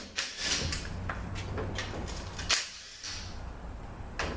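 Sharp metallic clinks and knocks of tools and transmission parts being handled on a workbench, a few separate strikes with the loudest about two and a half seconds in, over a steady low hum.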